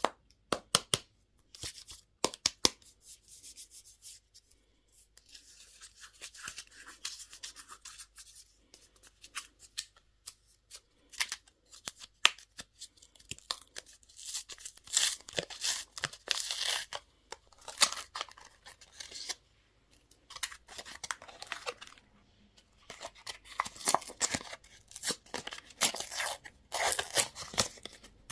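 Candy packaging being torn open and handled: irregular bouts of sharp crackling and rustling plastic and foil wrappers.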